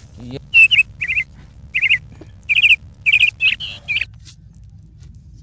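A bird calling loudly and repeatedly: clusters of two or three short chirps, each note sliding down in pitch. The calls go on for about four seconds, then stop.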